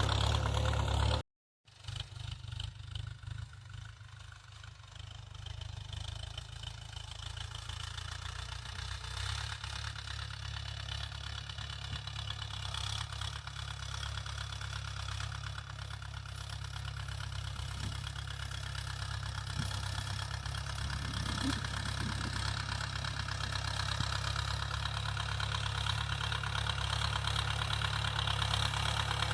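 Mahindra 475 tractor's diesel engine running steadily under cultivator work, growing gradually louder. The sound drops out completely for a moment about a second in.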